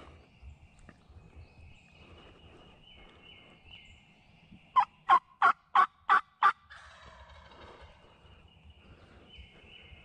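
Turkey yelping: a run of six loud, evenly spaced notes, about three a second, a little before halfway through.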